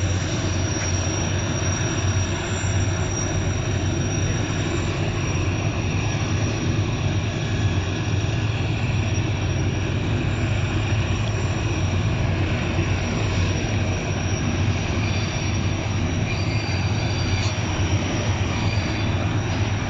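Diesel-electric locomotive of a mountain train running, with a steady low engine hum and rail noise that holds an even level.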